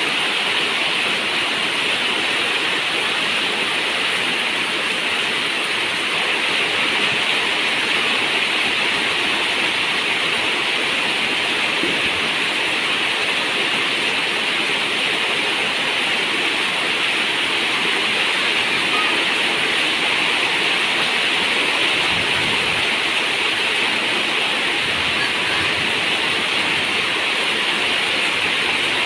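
Steady rain on a zinc roof, an even, unbroken hiss.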